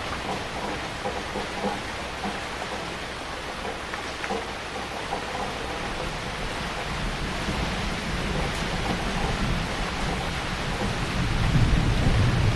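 Heavy rain falling steadily. A low rumble of thunder builds from about halfway through and swells louder near the end.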